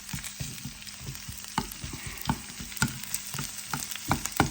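Garlic, fresh chili and onion frying in hot olive oil in a pan: a steady sizzle with many sharp, irregular crackles.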